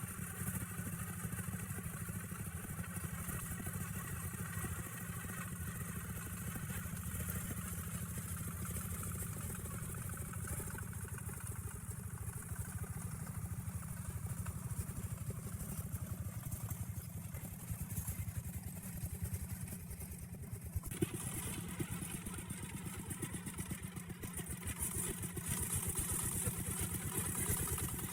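Engine of a small hauling truck running steadily under load, a low rapid chugging, growing a little louder over the last few seconds.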